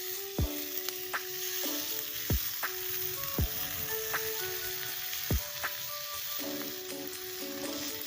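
Food sizzling as it fries in a pan over a campfire, a steady crackling hiss. Background music of held notes with a few sharp, falling thumps plays over it.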